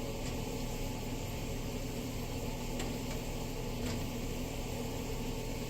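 Steady humming whir of a running kitchen appliance fan, with two faint ticks in the middle.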